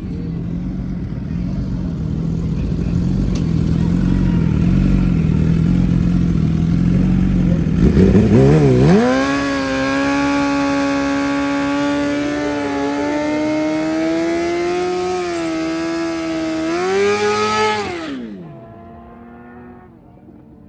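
Suzuki GSX-R1000 sport bike's inline-four engine through a Brock's aftermarket exhaust, held at wavering revs and then launching about eight seconds in. A loud, steady high engine note follows, edging higher twice, then drops away and fades near the end.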